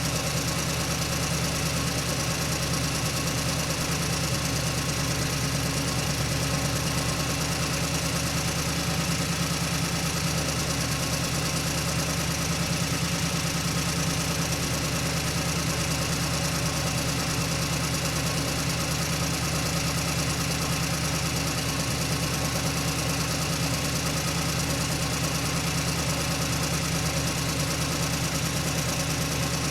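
Truck engine running steadily while driving, a constant low engine drone with no gear changes or revving.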